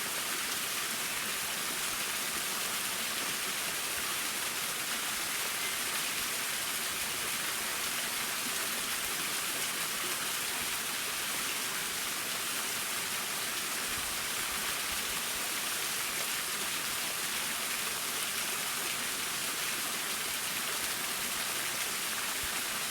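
Waterfall: water falling and splashing steadily, an even hiss-like rush with little low rumble.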